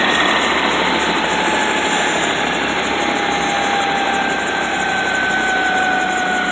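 AW109SP helicopter's twin Pratt & Whitney PW207C turboshaft engines running with a steady rushing noise and a whine whose pitch slowly falls, as the turbines wind down.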